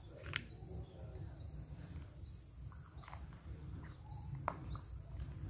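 A bird chirping over and over, short rising chirps every half second to a second, over a low steady rumble, with a couple of sharp clicks.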